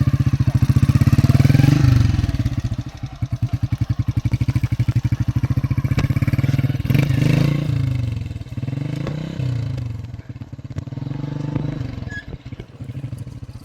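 Small motorcycle engine running with a rapid, even firing beat. It is revved up and eased back down near the start, and again about halfway through.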